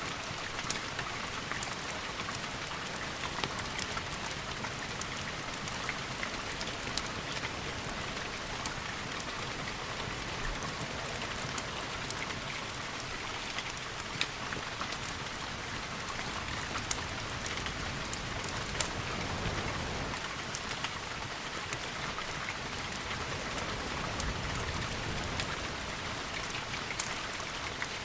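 Steady rain falling, with scattered sharp crackles and ticks through it, and a low rumble that swells briefly about two-thirds of the way in.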